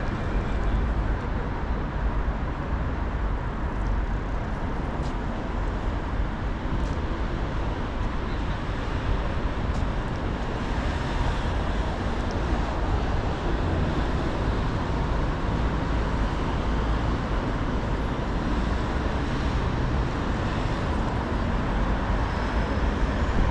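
Steady vehicle rumble, a deep, even drone with a constant hiss over it and no separate events standing out.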